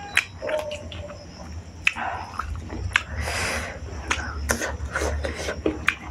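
A person eating close to the microphone: chewing with wet mouth clicks and sharp crunches, and a longer crunching stretch about two to three and a half seconds in.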